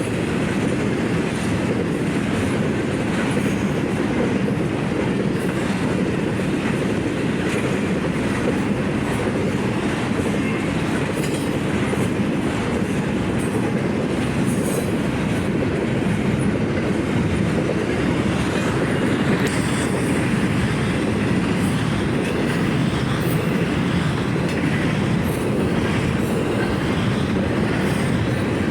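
Freight cars of a Union Pacific intermodal stack train rolling past: a steady rumble of steel wheels on rail, with scattered clicks and faint wheel squeal.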